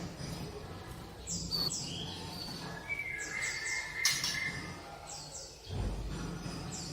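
A sunbird singing: groups of two or three high, steeply falling notes, repeated every couple of seconds, with a longer held whistle and a sharp click about four seconds in, over a low hum.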